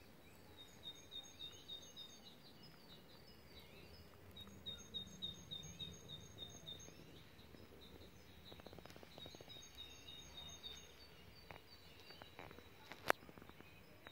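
A songbird singing faintly outdoors, repeating phrases of quick high chirps every few seconds. A single sharp click sounds near the end.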